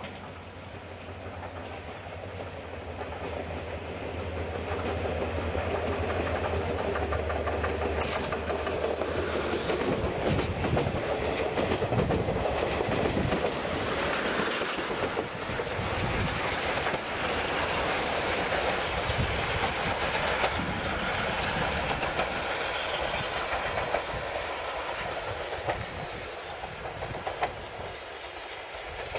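A passenger train with a diesel locomotive passes close by, its wheels clicking rapidly over the rail joints. It grows louder, is loudest through the middle and eases off near the end. A low steady hum is heard during the first third.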